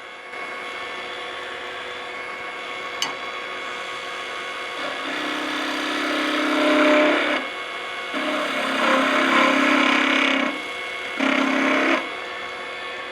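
Wood lathe spinning a thin hickory spatula blank while a skew chisel cuts it in three passes, starting about 5, 8 and 11 seconds in, each with a pitched chatter over the cutting noise. The chatter is the vibration of the thin workpiece whipping against the tool, which leaves chatter marks across the handle.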